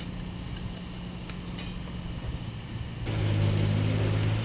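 Engine of a railway track maintenance car running steadily, then picking up revs and getting louder about three seconds in.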